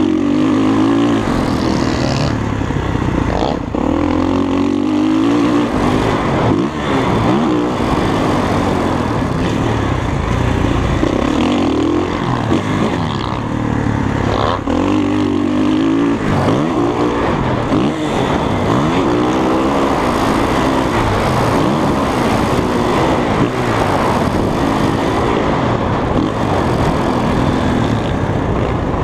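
Dirt bike engine revving while being ridden, its pitch rising and falling again and again with the throttle.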